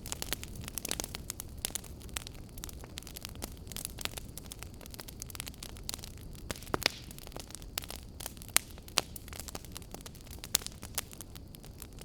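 Fire crackling: irregular sharp pops and snaps over a steady low rumble, with a few louder pops in the second half.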